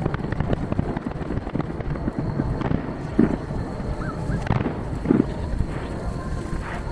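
Aerial fireworks shells bursting in quick succession: a dense run of low booms and their echoes, with two louder bursts about three and five seconds in. The recording is played at triple speed, which packs the bursts close together.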